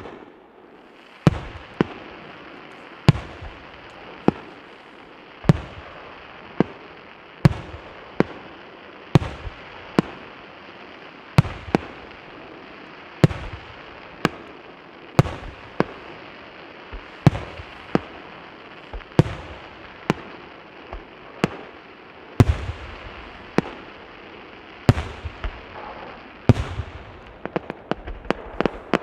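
Aerial fireworks shells bursting in a steady run, a sharp bang every second or two, each trailing off in echo, over a constant background hiss.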